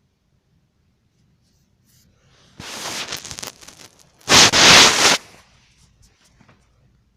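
Comforter fabric rustling in two bursts, one about two and a half seconds in and a louder one just after four seconds, as it is pawed and pulled about close to the microphone.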